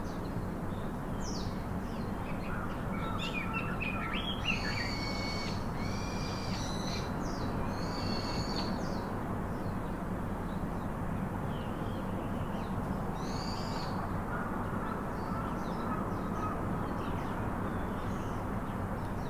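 Birds calling: bursts of short, high chirps and whistled notes, thickest a few seconds in and again past the middle, over a steady low hum.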